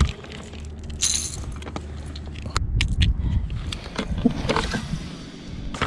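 Small hard items clinking and rattling as gear is handled, over a low steady rumble.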